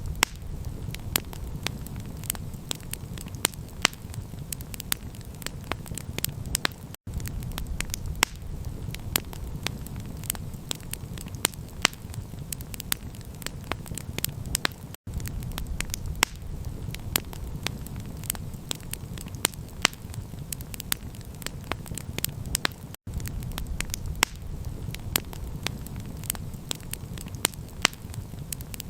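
Campfire crackling: frequent sharp pops and snaps over a steady low rumble. The sound cuts out for an instant three times, about every eight seconds.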